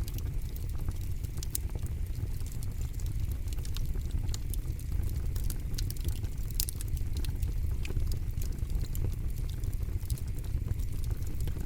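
Campfire burning: frequent, irregular sharp crackles and pops of burning wood over a steady low rumble.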